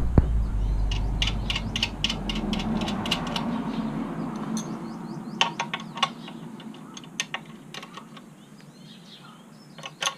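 Ratchet wrench clicking in quick runs, about four clicks a second, as the lock nut on a motorcycle's chain adjuster is tightened, with a few more scattered clicks later. A low rumble fades out over the first few seconds.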